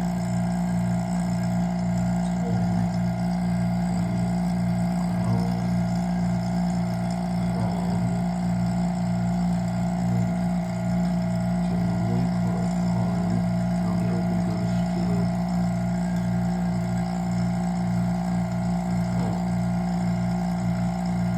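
Vacuum pump running steadily, a constant low hum with a regular pulse in it.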